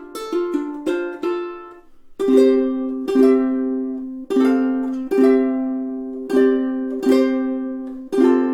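VTAB FLT-15 tenor ukulele played solo: quick fingerpicked notes for about two seconds, a brief pause, then chords strummed about once a second, each left ringing.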